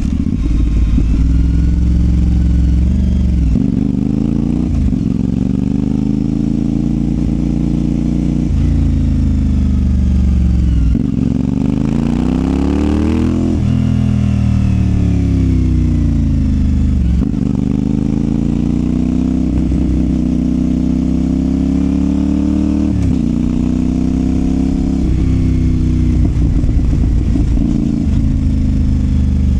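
CFMOTO 450SR's parallel-twin engine through a Yoshimura exhaust under way, its pitch climbing in each gear and dropping abruptly at each shift, with a quick high rev that rises and falls away about twelve seconds in.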